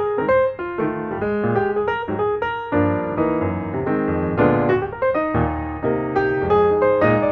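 Piano music, a run of quick notes over chords.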